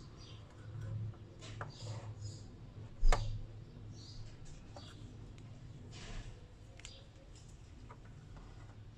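Light clicks and taps of multimeter probes and parts being handled on an inverter's power board, with one sharp knock about three seconds in, over a faint low hum.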